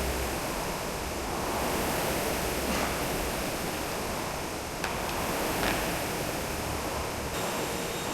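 Steady rushing of a swollen river's running water, with a few faint clicks.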